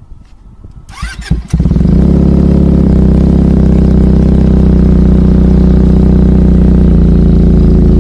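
Benelli TNT300 parallel-twin motorcycle with an aftermarket exhaust being started: a brief rising starter whine, then the engine catches about a second and a half in and runs loud and steady at idle.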